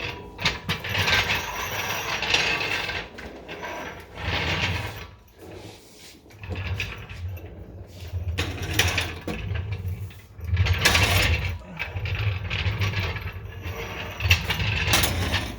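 Mechanical clicking and clattering in irregular bursts of a second or two, from hand-tool work on the exhaust under the car.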